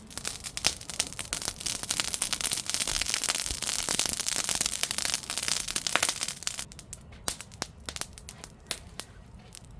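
Freshly lit mesquite charcoal crackling and popping as it is fanned and throws sparks, dense and continuous for about six and a half seconds, then thinning to scattered single pops.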